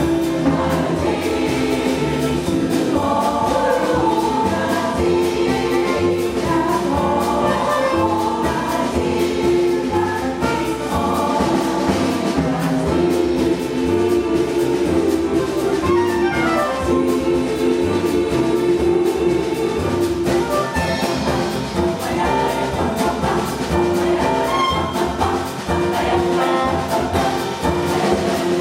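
A jazz chorus singing a song in harmony, backed by a small band of piano, saxophone, bass and drums.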